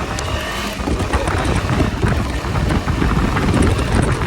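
A vehicle on the move with heavy wind buffeting the microphone, the rumble growing louder as it picks up speed.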